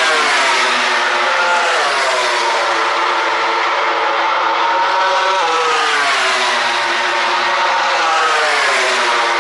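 Grand Prix racing motorcycles at full race pace, several engines running at high revs at once. Their pitch falls sharply several times and climbs again in between.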